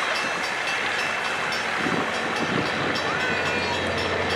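A railroad passenger coach and caboose rolling past on steel wheels, a steady rolling noise from the wheels on the rails.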